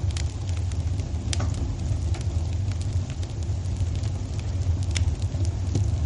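Wood fire crackling in a fireplace: scattered sharp pops over a steady low rumble.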